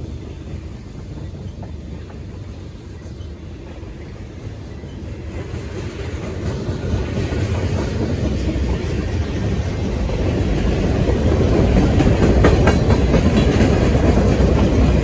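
Freight train's tank cars and boxcars rolling past over a road crossing. The steel wheels rumble and clack over the rail joints, growing louder about halfway through.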